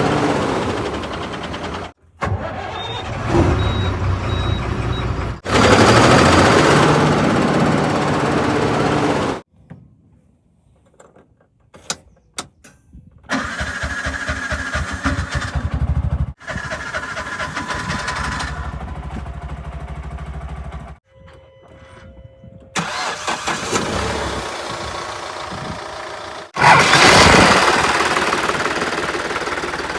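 Diesel engines of heavy machinery running in a string of short clips that cut abruptly from one to the next every few seconds, with a quieter stretch a third of the way through.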